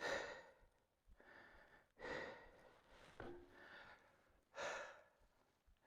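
A man breathing hard, several heavy breaths about a second apart, as he catches his breath.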